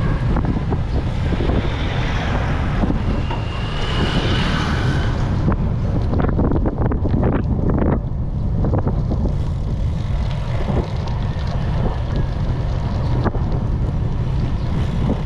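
Wind rumbling steadily on a GoPro's microphone while riding a bicycle at speed, with a brief high whine about four seconds in.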